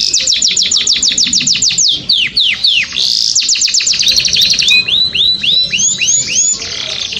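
A songbird singing loudly. It gives fast strings of clear, down-slurred whistled notes, about seven a second, then switches to slower, rising, hooked notes a little past halfway.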